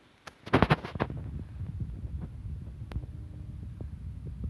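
A cat purring with a low, steady rumble close to the microphone, after a short burst of rustling about half a second in.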